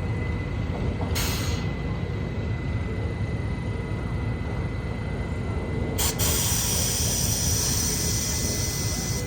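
New York City subway train at a station: a steady low rumble, a brief hiss of air about a second in, then from about six seconds a long, loud air-brake hiss.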